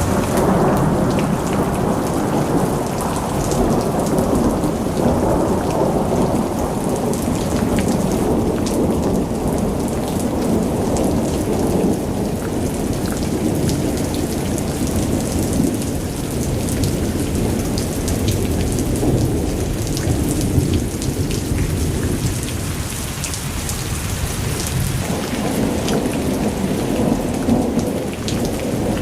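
Thunderstorm: steady heavy rain with thunder rumbling low and continuously underneath, scattered sharp raindrop ticks on top. The rumble eases a little past the middle and swells again near the end.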